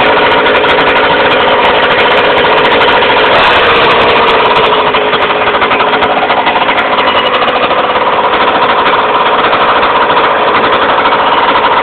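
Go-Ped GSR46 scooter's small two-stroke engine running hard, steady and loud, with a brief dip in pitch about three and a half seconds in. It starts and stops abruptly.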